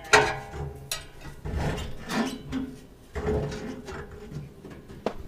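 Sharp metal knocks, then irregular clunking and scraping as a pry bar works an exhaust pipe loose from its rubber hangers.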